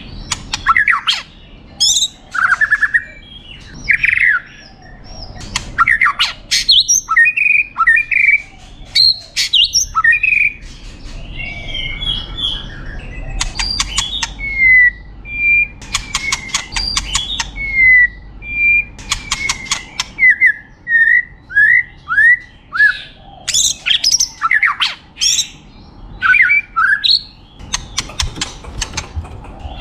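White-rumped shama singing a long, varied song: clear whistles and slurred notes, a run of down-slurred whistles near the middle, and several bursts of rapid rattling clicks.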